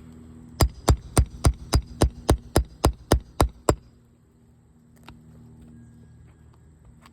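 A quick, evenly spaced run of about twelve sharp knocks, roughly four a second, lasting some three seconds, over a steady low hum; one fainter knock follows later.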